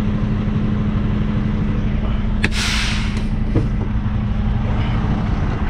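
Semi truck's diesel engine idling steadily, with a short burst of air hissing about two and a half seconds in, ending with a click.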